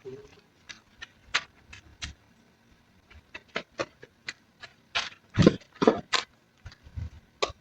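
Irregular knocks, clicks and snaps of things being handled, with a cluster of louder knocks about five to six seconds in.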